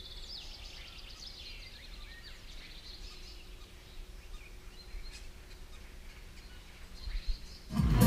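Small birds chirping and calling faintly in spring woodland over a low steady rumble of outdoor noise. Loud music cuts in near the end.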